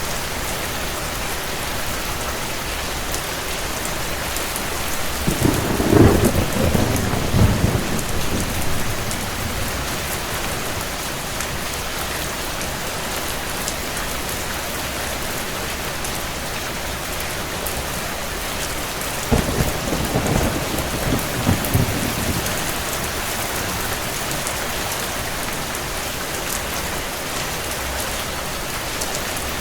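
Steady rain with two rolls of low thunder: one building about five seconds in and rumbling for several seconds, and a shorter one about twenty seconds in.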